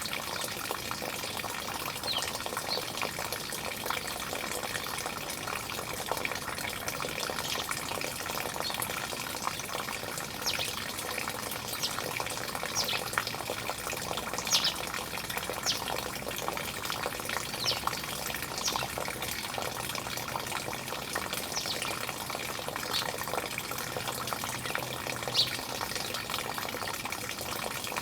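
Steady running water with short, high bird chirps scattered over it, one every second or two through the middle.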